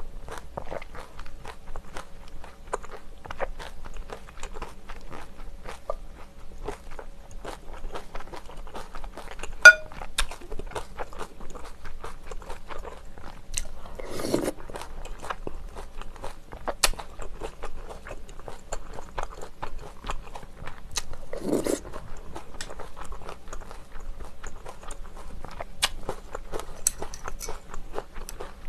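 Close-miked eating of rice cake and dumpling soup: steady chewing and biting with many small wet mouth clicks. A sharp ringing clink, the loudest sound, comes about ten seconds in, and there are two short louder mouth noises about halfway and three-quarters through.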